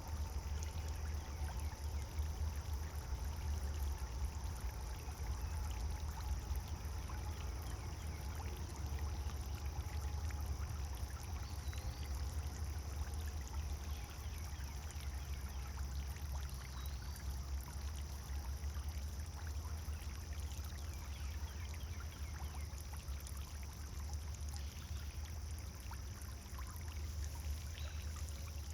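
Pond fountain's water pouring and splashing steadily into the pond, a continuous rush with a low rumble. Two faint short high chirps about twelve and seventeen seconds in.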